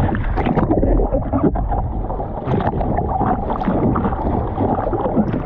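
Ocean water splashing and sloshing around the microphone in the surf, with wind buffeting it, in many short irregular splashes over a steady wash.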